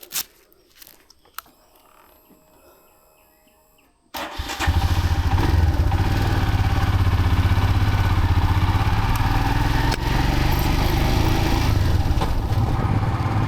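A few faint clicks, then about four seconds in a motorcycle engine starts and keeps running steadily.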